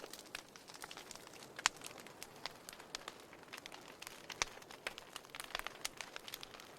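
Wood fire burning: a soft steady hiss dotted with irregular sharp pops and snaps from the burning firewood, the loudest about two seconds in and again a little past the middle.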